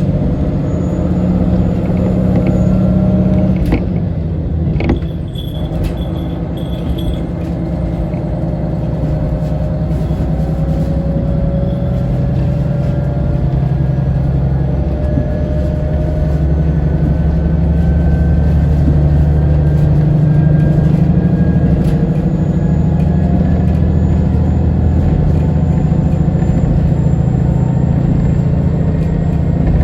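Diesel railcar's engine running under power, a steady low rumble whose pitch slowly rises through the middle stretch. A brief clack or two about four to five seconds in.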